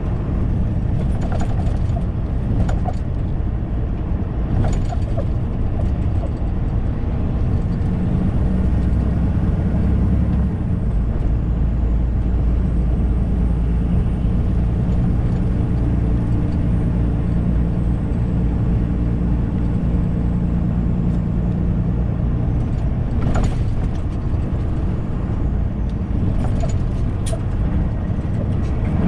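Semi-truck driving, heard from inside the cab: steady low engine drone and road rumble, the engine note shifting from about a third of the way in, with a few short clicks or rattles near the start and toward the end.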